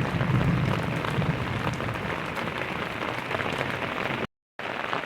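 Heavy rain pouring down, with many drops pattering and ticking on surfaces, and a low rumble under it for the first second and a half. The sound cuts out for a moment about four seconds in.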